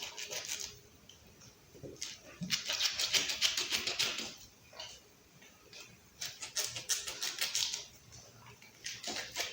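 A pit bull chewing raw meat and bone, with wet crunching that comes in three or four bursts separated by short pauses.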